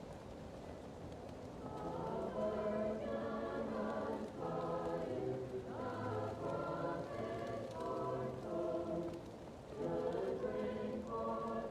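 Choir singing a slow hymn-like piece, muffled as if from another room, coming in about two seconds in with a short break near the end; a fireplace crackles faintly underneath.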